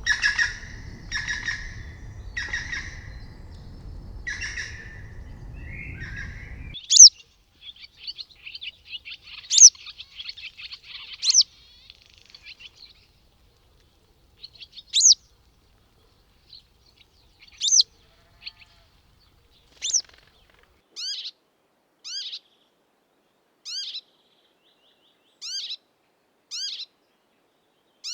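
Bird calls from two different recordings. First comes a bird calling repeatedly, about once a second, over a low background rumble. After an abrupt change about 7 seconds in, a bird gives sharp, steeply falling whistled notes every second or two, with a buzzy trill early on.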